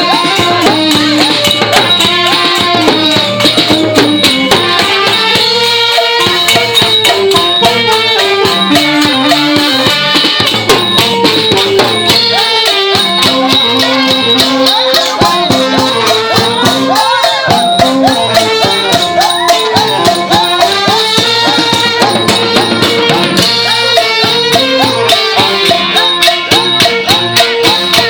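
Thai brass band (trae wong) playing a fast tune: a wavering lead melody over dense, rapid percussion with rattling cymbals.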